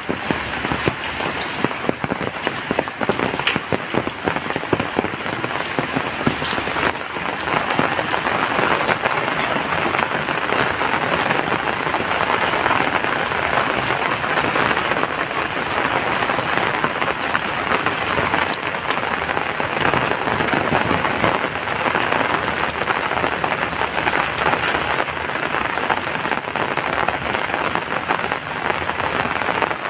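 Heavy rain falling steadily: a dense, even hiss with many separate drops striking close by.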